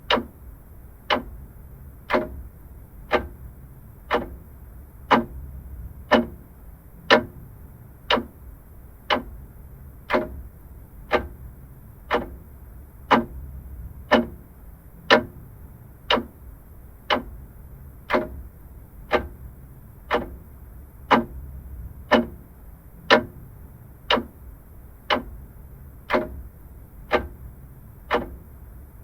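Vintage mechanical clock ticking steadily, one sharp tick about every second.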